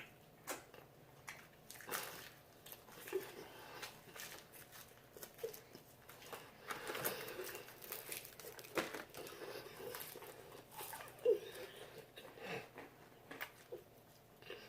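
People chewing and biting into fried chicken wings: irregular crunches and mouth sounds, fairly faint.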